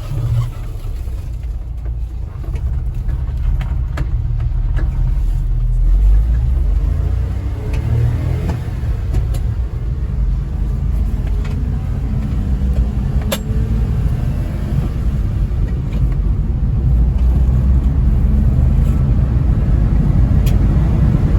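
A 1991 Honda Acty 4WD mini truck being driven: a steady low rumble of its small three-cylinder engine and the road, growing louder as it picks up speed, with the engine note rising about a third of the way in.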